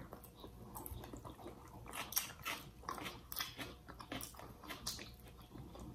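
Faint chewing and lip-smacking of people eating baked fish by hand: a scattered string of short, wet mouth clicks, a couple every second.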